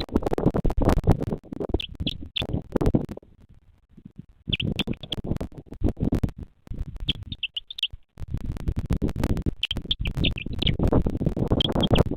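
Gusty rumbling noise full of crackles, as of wind buffeting the microphone, that drops away about four seconds in and briefly near eight seconds. Over it a bird gives short runs of three or four high notes, repeated roughly every two and a half seconds.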